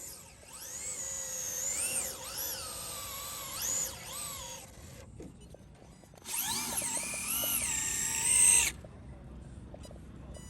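Electric motors of RC drag cars whining as they are revved, the pitch rising and falling with each throttle blip. A first burst of about four seconds, then a second of about two and a half seconds that starts about six seconds in and cuts off suddenly.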